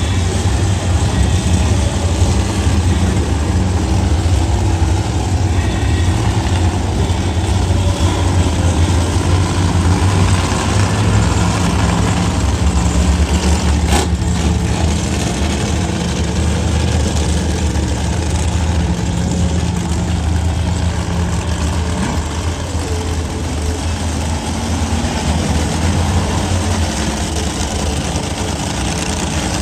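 Several monster truck engines idling together, a steady low drone.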